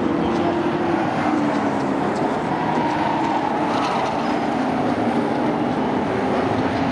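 A field of short-track sport trucks racing, several engines running together in a steady drone whose pitch drifts slightly as the trucks circle the track.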